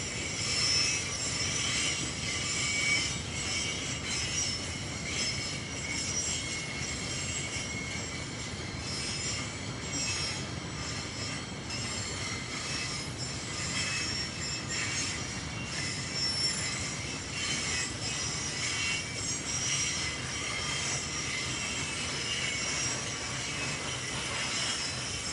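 Loaded narrow-gauge hopper wagons rolling past, a low rumble under high, steady wheel squeal.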